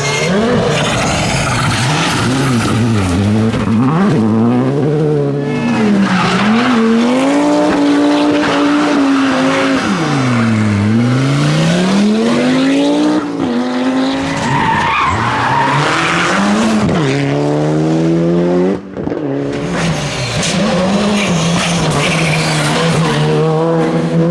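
Rally car engines revving hard, the pitch repeatedly climbing and dropping through gear changes and lifts off the throttle. The sound breaks off briefly about 19 seconds in, then another engine runs at high revs.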